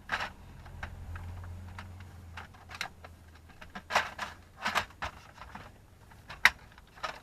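Irregular plastic clicks and knocks as an HVAC control unit is worked into a car's dash panel, a few sharper knocks about four, five and six and a half seconds in. A faint low hum runs under the first couple of seconds.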